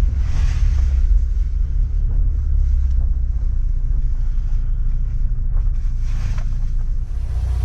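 Toyota Tacoma pickup's engine running with a steady low rumble.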